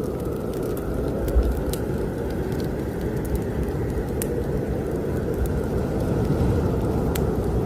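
Strong snowstorm wind blowing as a steady, low rushing noise, with the small pops and crackles of a wood fire in a fireplace scattered through it.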